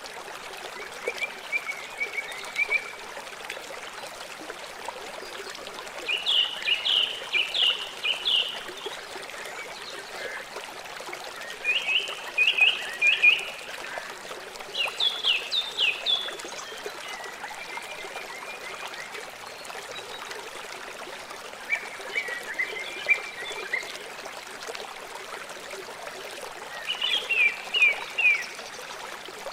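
Steady rush of running water, as from a stream. Over it come groups of short, quick chirping calls every few seconds, which are the loudest sounds.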